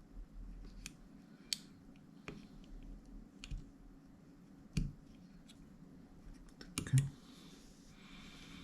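Scattered small clicks and taps, irregular and sharp, from meter test probes touching the legs of the inverter's power transistors while they are checked for shorts. The loudest taps come about five and seven seconds in.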